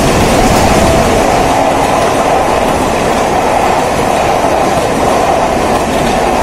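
Mumbai suburban local electric train running at speed: a loud, steady rush of wheels on rail and wind.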